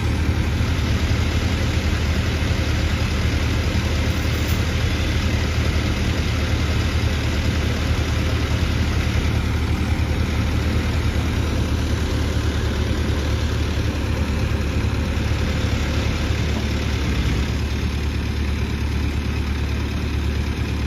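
Diesel engine running steadily at an even, low speed with a deep hum.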